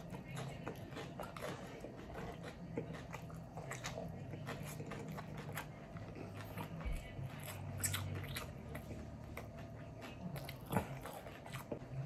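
A person chewing a mouthful of steak and rice, with many small wet mouth clicks, over a faint steady low hum.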